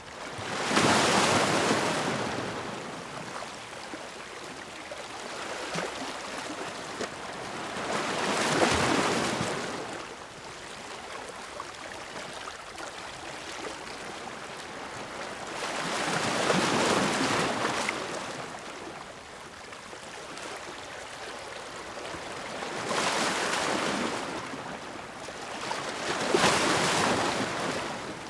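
Ocean waves breaking against rocks, five surges in turn, each swelling into a rushing crash and draining away over a couple of seconds, over a steady wash of surf.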